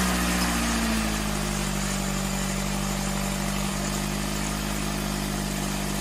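Car engine idling steadily, its revs settling down slightly in the first second and then holding even.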